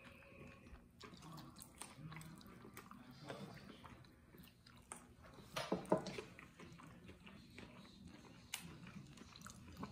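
Faint chewing and biting on chicken wings: soft mouth and lip noises as meat is pulled from the bone, with a louder burst of mouth sounds about halfway through.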